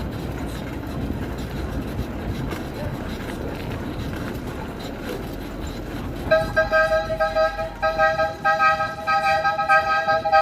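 Steady rushing noise of riding, then from about six seconds in a loud two-tone vehicle horn honking in repeated blasts of unchanging pitch.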